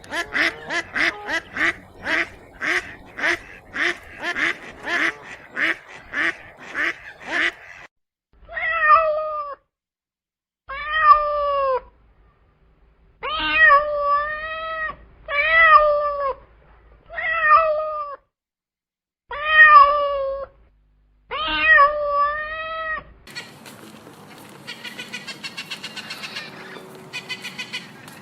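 Ducks quacking in a fast, steady run of short calls, then after about 8 seconds a cat meowing over and over in separate drawn-out meows. Near the end a busier, noisier mix of animal sounds takes over.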